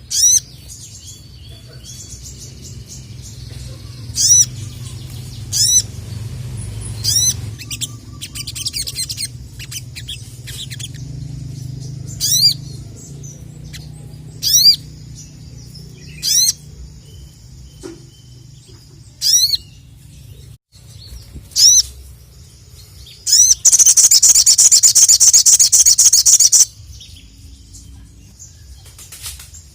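Sogon (sogok ontong) songbird singing: short, sharp rising whistled notes repeated every second or two, then a loud, rapid chattering run lasting about three seconds near the end. A low hum runs underneath.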